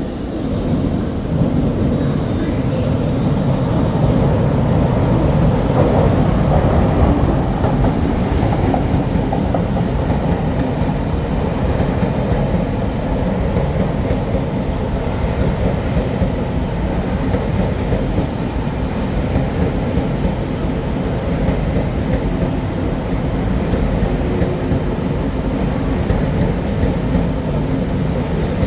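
A train running through a station: a steady loud rumble of wheels on rails that swells about a second in and holds, with a brief high squeal about two seconds in and another near the end.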